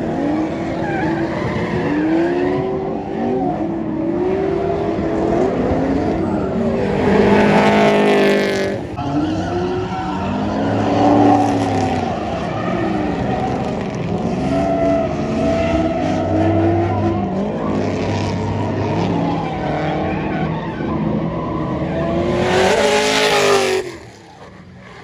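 Drift car engine revving up and down through a slide, with tyre squeal swelling to two loud surges, about a third of the way in and near the end, where the sound drops away suddenly.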